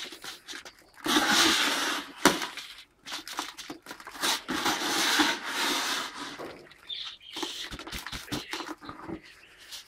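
Gritty calcium-block mix with shell grit being scraped and tipped into a container: scratchy scraping in several stretches, with a sharp click about two seconds in.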